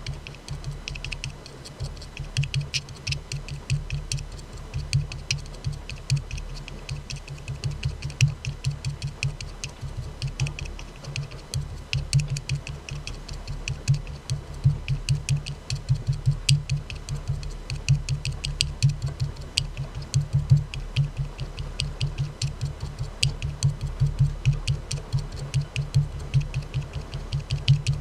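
Fingers tapping quickly and unevenly on an aluminium soda can, several taps a second, each a bright click with a dull thud beneath.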